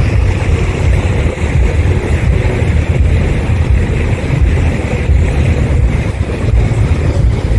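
Steady low rumble of a boat's motor running, with wind buffeting the microphone.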